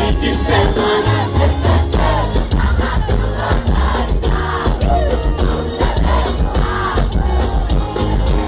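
Live sertanejo band music, heavy bass and drums with many voices singing at once, the crowd joining in with the song.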